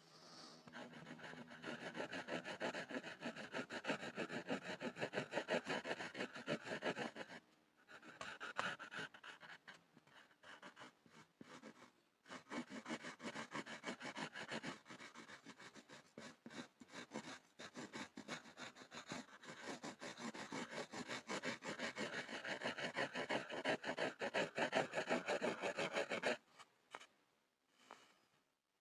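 Pencil scribbling fast on a board: a dense run of quick scratchy strokes with two short pauses, stopping a couple of seconds before the end.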